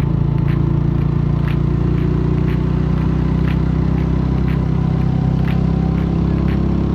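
Mutt Akita 250 motorcycle engine idling steadily at an even pitch, with a light regular tick about once a second.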